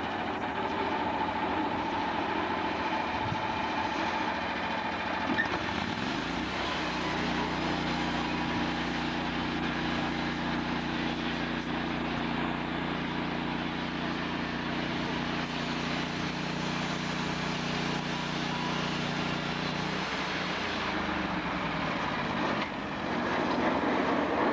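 Sawmill running steadily. About six seconds in its sound shifts to a steadier, deeper drone that holds until about twenty seconds in and then shifts back, consistent with a log being sawn through.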